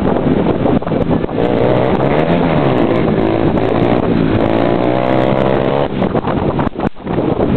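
Motorcycle engine revving, its pitch rising and falling a few times.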